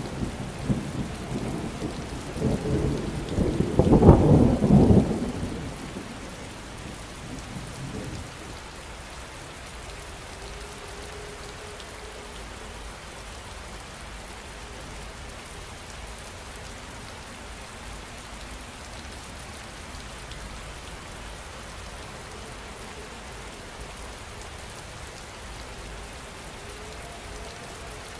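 Thunderstorm: a rolling rumble of thunder at the start, loudest about four seconds in and dying away by about eight seconds, over steady rain that goes on alone for the rest of the time.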